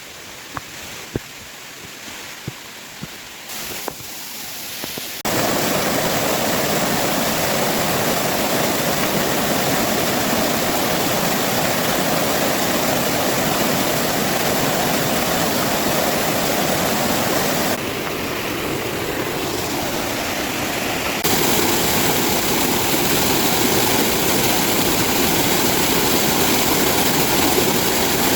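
Mountain stream waterfalls rushing, heard as a steady wash of falling water. The first few seconds are a quieter stream with a few sharp clicks; it then turns to a louder rush that changes abruptly in level twice more as one fall gives way to the next.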